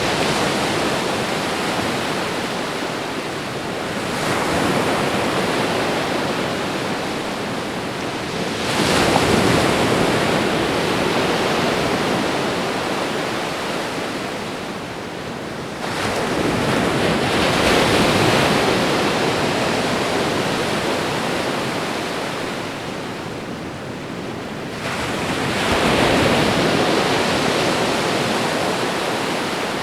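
Ocean waves washing onto a shore: a steady hiss of surf, with a new wave surging in sharply every seven to eight seconds and slowly fading away.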